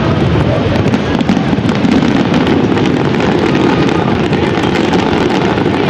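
Japanese fireworks display: a dense, unbroken volley of bursts and crackles, with no pause between the reports.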